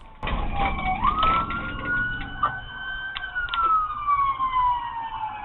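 Police car siren wailing: its pitch jumps up, climbs slowly, then falls in a long glide, over a low engine and road rumble.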